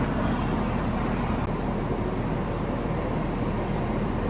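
Greater Anglia Class 745 electric train standing at the platform, its equipment giving a steady low hum under the general station noise.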